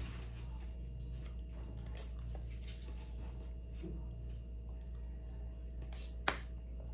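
Guava being chewed with the mouth closed: faint, irregular soft clicks, with one sharp click about six seconds in, over a steady low hum.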